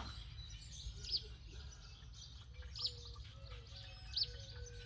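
A small bird chirping: three brief high chirps about a second and a half apart, over quiet background noise.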